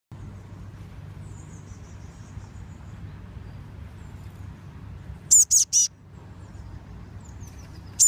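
Young bird chirping: faint high chirps early, then three loud, high calls in quick succession a little past five seconds in, over a low steady background hum.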